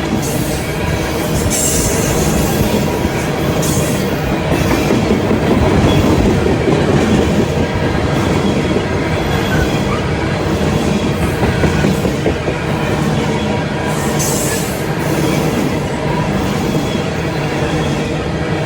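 A train rolling past on the rails: a steady rumble of wheels with clicking over the rail joints, and brief high wheel squeals about two seconds in and again near fourteen seconds.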